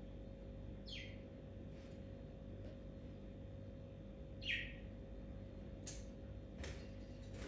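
A bird gives two short chirps that fall in pitch, about a second in and again about four and a half seconds in. Two sharp clicks follow near the end, over a faint steady hum.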